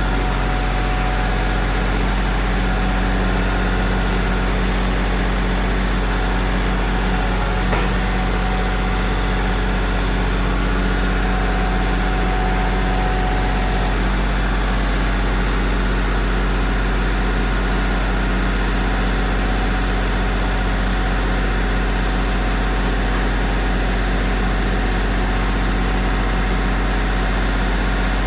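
Engine of a loader machine running steadily at a constant speed, with one faint tick about eight seconds in.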